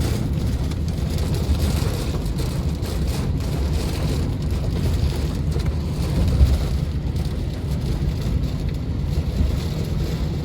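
Hail and rain pelting down in a strong wind, with gusts buffeting the microphone as a steady low rumble that is the loudest part.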